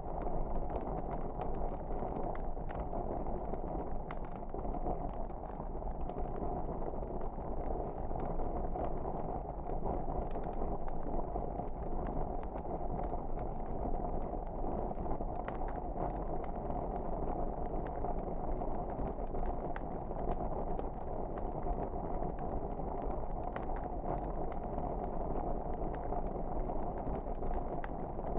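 Log fire crackling in a fireplace: a steady low rush of burning with frequent small pops and snaps throughout.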